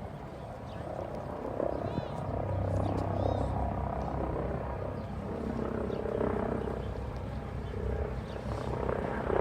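Eurocopter EC155 helicopter flying past, a steady low sound throughout, with two brief high chirps about two and three seconds in.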